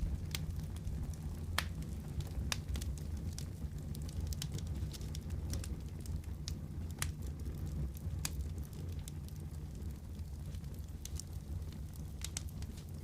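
Fireplace wood fire crackling, with irregular sharp pops over a steady low rumble.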